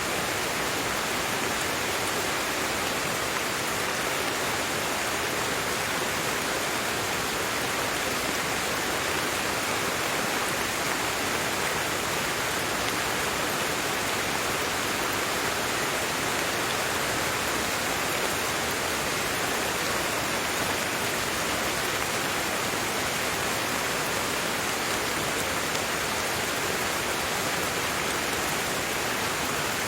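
Steady heavy rainfall, an even hiss of drops with no breaks or separate impacts.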